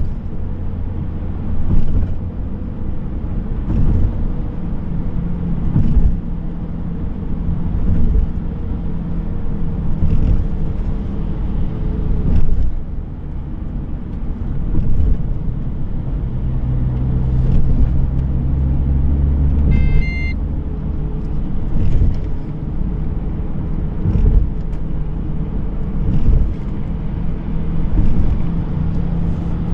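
Car driving along the road: steady engine and tyre rumble, with a regular bump about every two seconds and one short high beep about twenty seconds in.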